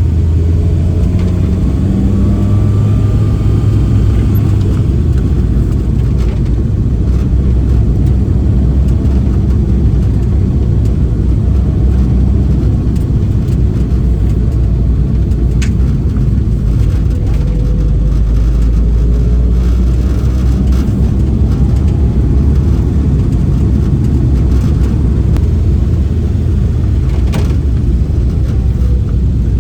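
1986 Toyota Corolla AE86's 4A-GE inline-four running as the car is driven, its note rising and falling a few times with road noise underneath. Two short sharp clicks come through, one about halfway and one near the end.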